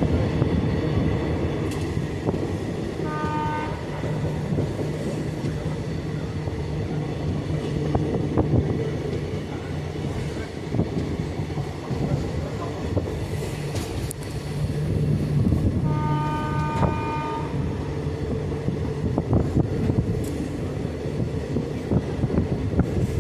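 Express train running on the rails with a steady rumble and wheel clatter. Its horn sounds twice: briefly about three seconds in, and for a second and a half about sixteen seconds in.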